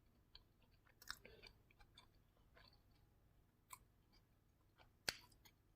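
Faint chewing of a bite of chicken and spinach tortilla wrap, with scattered small clicks and crunches; the sharpest click comes about five seconds in.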